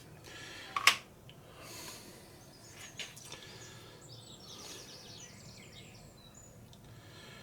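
A sharp knock about a second in and a lighter one near three seconds. A bird gives a quick run of short high chirps in the background.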